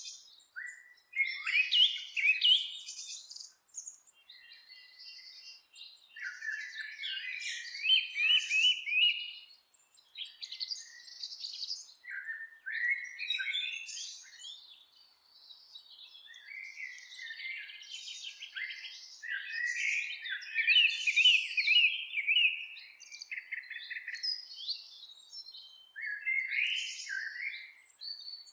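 Songbirds singing in a forest: a run of warbled, chirping song phrases, each a second or three long, separated by short pauses, with no steady background such as water or wind.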